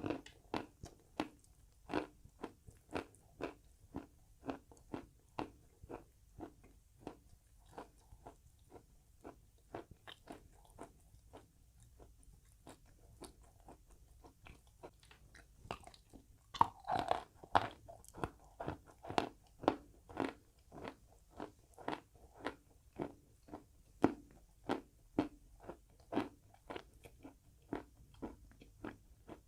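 Chalk being bitten and chewed with crisp, rhythmic crunches at about two a second. The crunches grow softer for a few seconds in the middle, then a loud crunch about halfway is followed by louder crunching.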